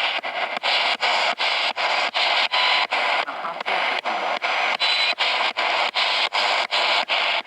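Spirit box sweeping through radio stations: a steady rush of radio static chopped into short snatches by brief dropouts about four times a second as it jumps from channel to channel.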